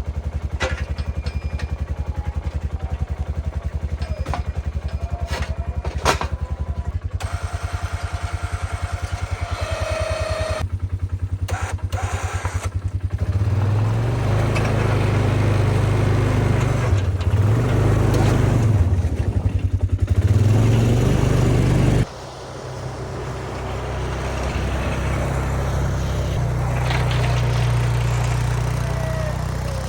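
Snowmobile engine idling with a fast, even putter. About 13 seconds in it is revved and run harder, the pitch rising and falling, as it pulls a homemade snow packer. The sound drops suddenly about 22 seconds in, then the engine is heard running again.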